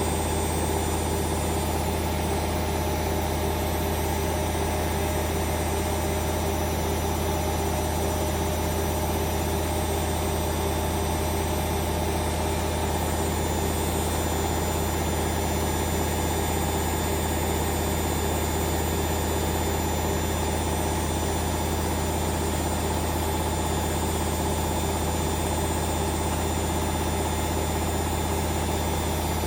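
Hoover Vision Dynamic washing machine spinning at a steady high speed: a loud, even motor hum with steady whining tones over it.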